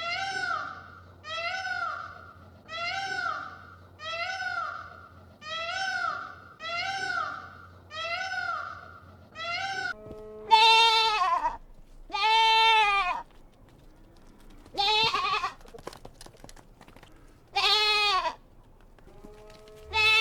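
Bleating: eight short, arched bleats repeated at an even pace about every second and a half. After a cut, five longer, lower and louder bleats follow a few seconds apart.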